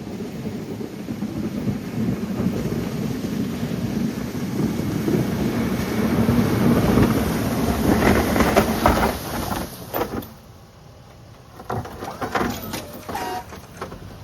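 A snow-clearing machine pushing snow: a low scraping rumble that builds, then drops away suddenly about ten seconds in, followed by a few knocks.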